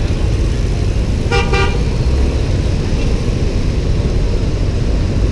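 Steady low rumble of a motorbike ride through city traffic; about a second and a half in, a vehicle horn gives a short toot.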